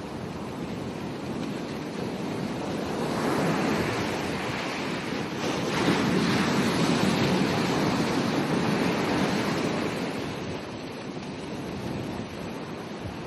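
Ocean waves breaking on a beach: the surf builds from about three seconds in, is loudest around six to nine seconds, then washes back down to a lower steady hiss.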